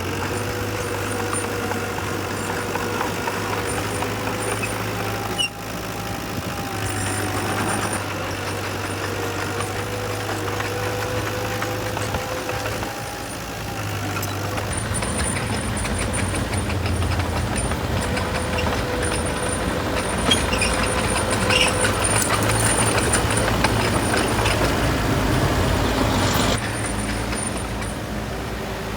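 Heavy diesel engines of earthmoving machinery running steadily at a dump-truck and bulldozer site. The sound grows louder and rougher about halfway through, then drops suddenly near the end.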